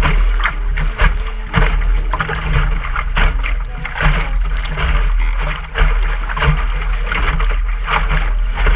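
Water rushing and splashing along a sailboat's hull in irregular surges, over a steady low rumble of wind on the microphone.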